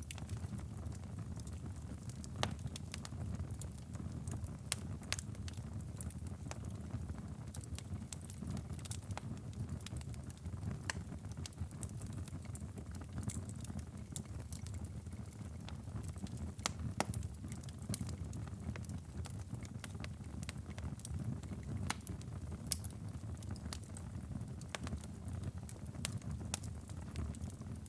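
Wood fire crackling in a fireplace, with scattered sharp pops, over a steady low rumble.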